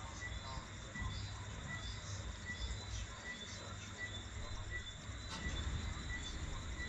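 A chirping insect: a faint, high, short chirp repeating evenly about twice a second over a low background rumble.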